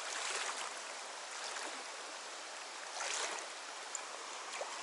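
Flowing water of a trout stream, a steady rushing hiss, with a brief louder noise about three seconds in.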